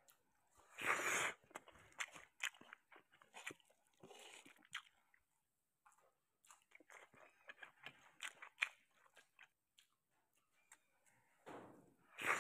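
Close-miked wet chewing and mouth sounds of a person eating sardines and rice by hand: many small clicks and smacks, with a few louder bursts about a second in, around four seconds and near the end.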